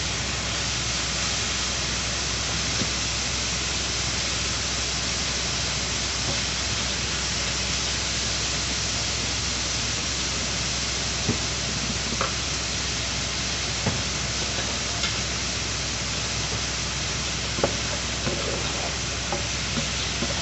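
Chicken and shrimp sizzling steadily in a nonstick frying pan, with scattered clicks of a wooden spatula against the pan as the food is stirred, more of them in the second half.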